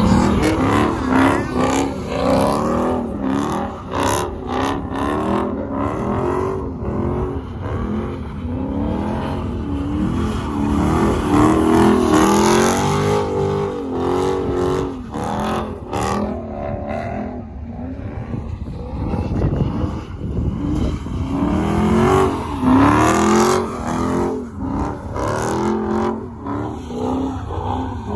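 Truck engines revving over and over, their pitch climbing and dropping again every second or so.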